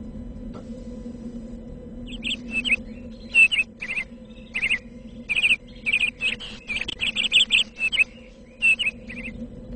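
Birds chirping: rapid groups of short, high chirps that begin about two seconds in and stop near the end, over a steady low hum.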